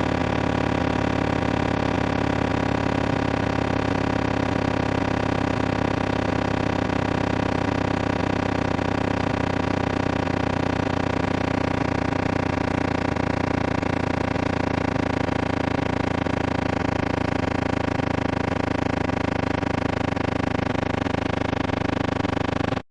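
Synthetic water-eject speaker-cleaning tone: a loud, unchanging electronic buzz of many held pitches sounding together, strongest in its low notes, meant to vibrate a phone speaker's cone and push water out.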